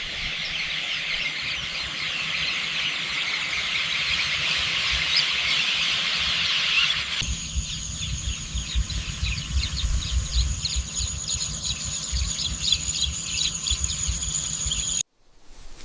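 Countryside outdoor ambience of many small birds chirping densely. About seven seconds in it changes to scattered chirps over a steady high whine, with a low rumble of wind beneath, and it cuts off abruptly near the end.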